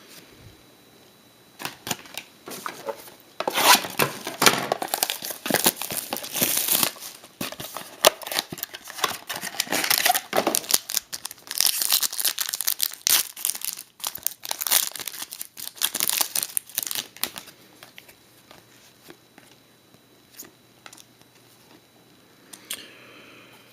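Plastic trading-card packaging being torn and crinkled while the cards are handled, in dense crackling spells from a few seconds in until past the middle, then scattered small clicks before it goes quiet near the end.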